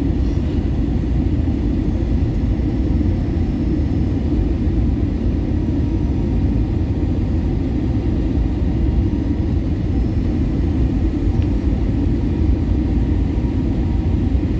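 Steady rumble of an airliner's engines and airflow heard from inside the passenger cabin during descent.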